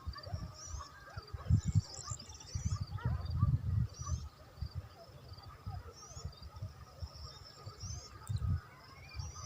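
Small birds chirping and trilling in short, high phrases, several singing on and off, with low irregular rumbles of wind buffeting the microphone.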